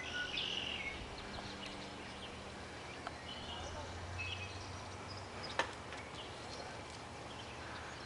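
Outdoor meadow ambience with scattered short chirps and calls of songbirds, and a single sharp click about five and a half seconds in.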